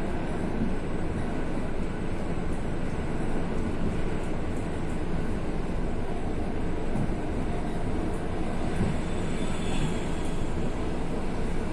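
ED4M electric multiple unit running on the rails: a steady, even rumble of wheels and running gear, with a brief faint high-pitched squeal near the end.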